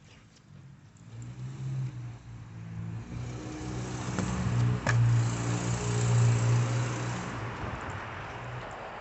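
A motor vehicle passing by: an engine hum and tyre hiss that build up, peak about five to six seconds in, then fade away.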